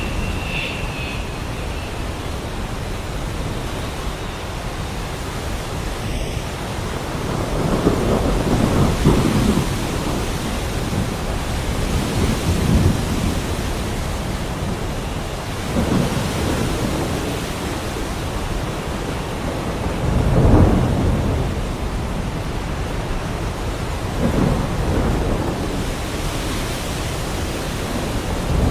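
Heavy rain falling steadily, with rolling thunder rumbling up and dying away again every few seconds, about six times.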